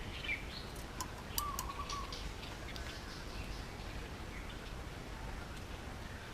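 Indian ringneck parakeet making soft sounds: a short chirp near the start, a brief warbling whistle about a second and a half in, and a few faint chirps. Several sharp clicks fall in the first two and a half seconds.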